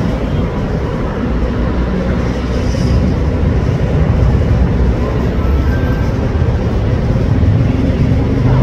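Diesel train approaching slowly, its engine and running gear giving a steady low rumble.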